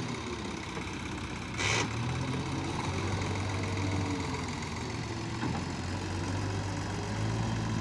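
Diesel engine of heavy farm machinery running steadily at idle, with a brief burst of hissing noise about two seconds in.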